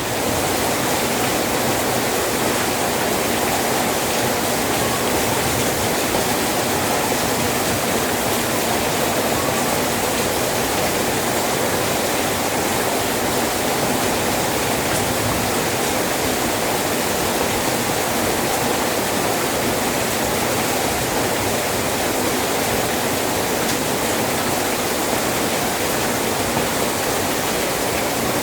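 Rain falling steadily: a dense, even rushing hiss that does not let up.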